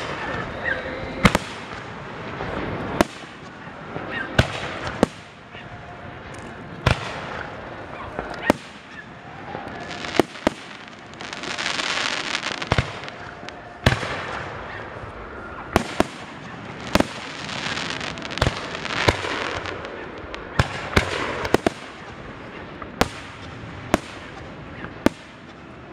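Aerial fireworks shells bursting overhead in a string of sharp bangs, about one every second or two. There are two stretches of dense crackling near the middle.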